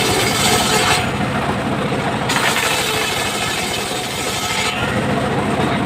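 Circular saw running with its drive engine humming low and steady, the blade cutting timber with a high hiss. The hiss of the cut drops away about a second in, returns a little after two seconds and drops away again near the end.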